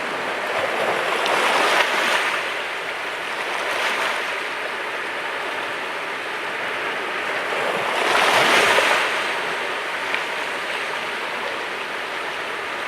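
Sea waves breaking on a rocky shore with a steady wash of surf, two waves surging up and crashing, about a second in and again, louder, about eight seconds in.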